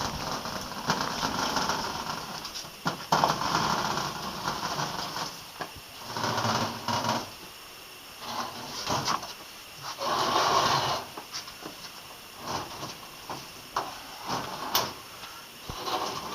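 Old Hoover Ecologic washing machine being wheeled and shoved along a floor with effort: scraping, rolling noise in bursts of about a second, with a few sharp knocks between them.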